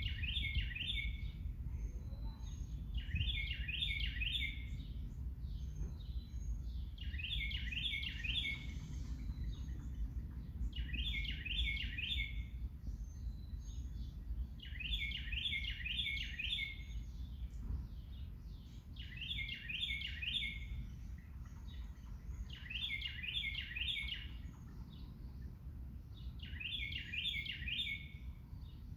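A songbird singing the same short phrase of quick repeated notes over and over, about every four seconds, with a steady low rumble underneath.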